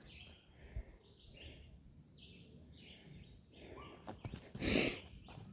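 A bird chirping repeatedly in woodland, its short calls coming about twice a second, over faint footsteps. Near the end there is one brief, loud, noisy crunch, the loudest sound here.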